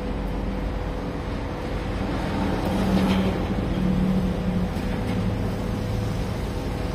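Heavy machinery engine running steadily, with a low hum that rises slightly and shifts in pitch through the middle.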